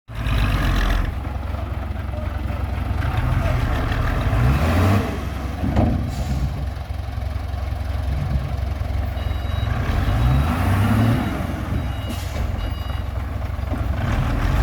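Truck engine running and revving several times, with short high reversing beeps about ten seconds in and again near the end.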